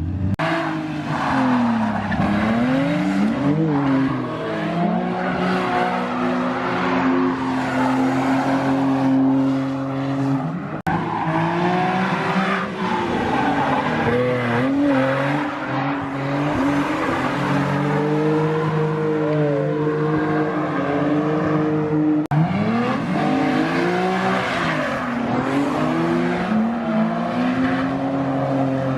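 Drift cars sliding on a wet track: engines revving up and down in sweeps and held high through the slides, over tyre noise. The sound changes abruptly about 11 seconds in and again about 22 seconds in, as from one run to another.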